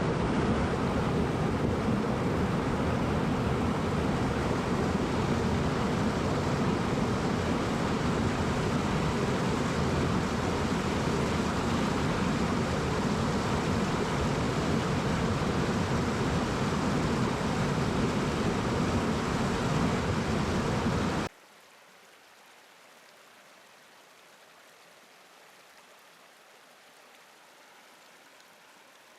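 Heavy rain, a dense steady noise that is strongest in the low end. It starts abruptly and cuts off suddenly about 21 seconds in, leaving a much fainter rain hiss.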